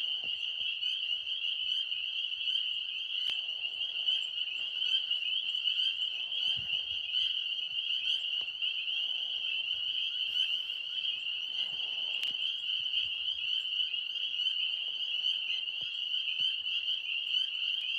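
Dense chorus of tree frogs calling: an unbroken, high trill without pause.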